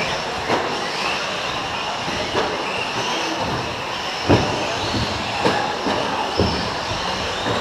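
A pack of electric 4WD radio-controlled short course trucks racing: brushless motors whining, rising and falling in pitch as they speed up and slow down, with several sharp knocks from the trucks, the loudest about four seconds in.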